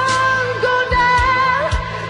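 Malay pop song: a singing voice holding long, wavering notes over a backing track with a steady drum beat.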